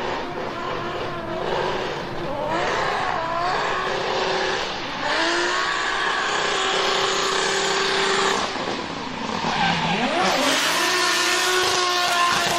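Drift car's engine revving up and down under load while its tyres squeal and skid; the revs drop sharply just before the end and climb again.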